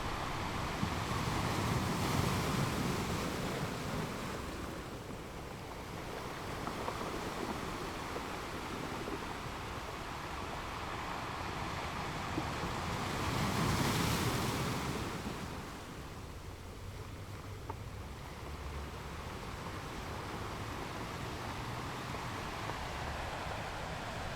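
Ocean surf on a beach: steady wash of waves, with two larger waves swelling and breaking, one about two seconds in and another about fourteen seconds in.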